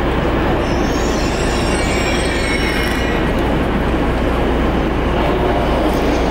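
ICE high-speed trainset creeping up to another unit for coupling: its wheels squeal with a few wavering high tones for about two seconds near the start, over a steady low rumble.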